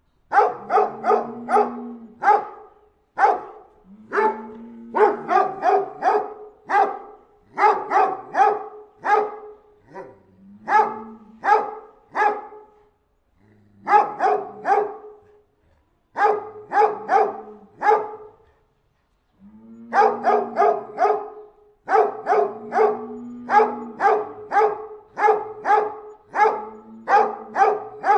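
Anatolian shepherd dog (Çomar) barking in quick volleys of three to six barks, with short pauses between volleys.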